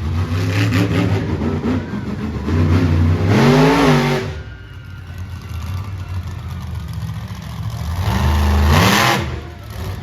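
Monster truck engine revving hard in bursts, its pitch climbing and falling back, with two loud peaks about a third of the way in and near the end, and lower running between them.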